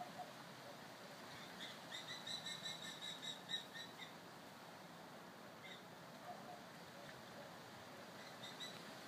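A bird calling: a rapid run of short, high, evenly repeated notes lasting about two seconds, a little over a second in, with a few faint notes again near the end, over a faint steady hiss.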